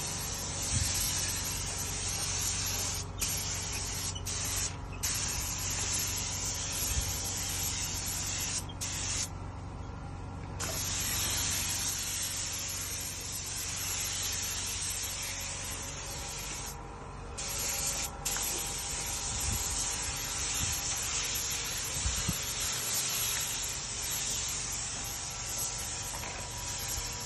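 Air spray gun spraying paint in a steady hiss, cutting out briefly several times as the trigger is released, once for about a second.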